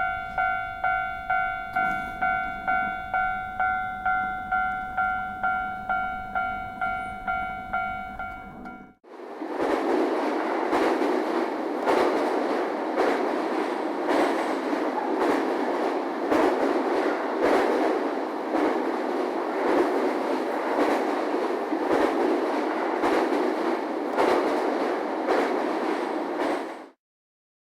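A railway level-crossing alarm rings with a repeated clanging tone, about two and a half strikes a second. About nine seconds in it breaks off and a train passes, its wheels going clickety-clack over the rail joints in a steady stream of clicks, until the sound stops abruptly near the end.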